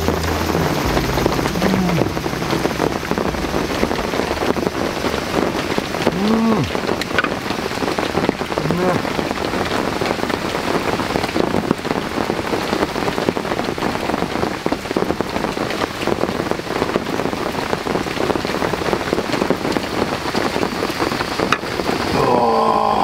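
Heavy rain pattering steadily on a canvas tent, heard from inside.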